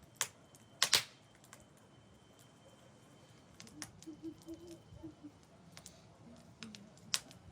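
A few sharp knocks or clicks: two close together about a second in, lighter taps in the middle, and another sharp one near the end.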